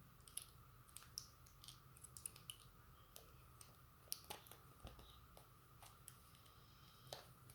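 Scattered light clicks and taps of plastic parts being handled as the casing of an opened Apple 85 W MagSafe 2 charger is put back together, irregular and faint over a low steady hum.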